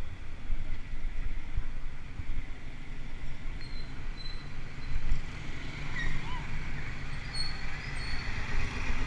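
Wind buffeting the microphone of a camera riding along on a moving mountain bike, a low, unsteady rumble. A few faint high chirps come in the second half.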